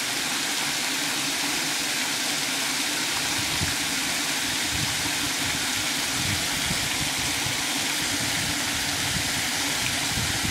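Waterfall rushing: a steady, even roar of falling water, with irregular low rumbles from about three seconds in.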